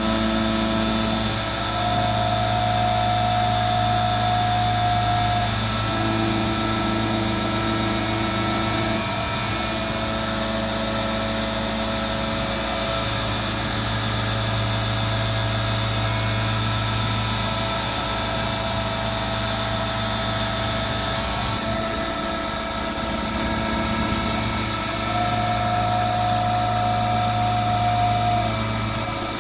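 CNC-converted ZX7045 mill-drill milling with an 8 mm end mill at 6000 rpm, taking a cut 17 mm deep and 1 mm wide at 1200 mm/min. A steady machine whine of many tones, with a lower hum and a higher tone that come and go in stretches of a few seconds.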